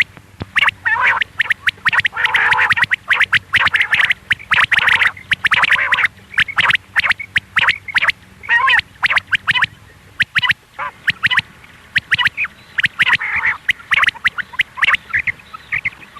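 Female quail calling: quick runs of short, harsh chirping notes repeated over and over with brief pauses, a call used to lure quail for hunting.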